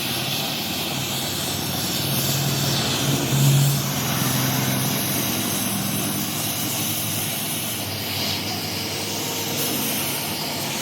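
Steady workshop machine noise, a loud even hiss with a faint low hum underneath and a brief swell about three and a half seconds in.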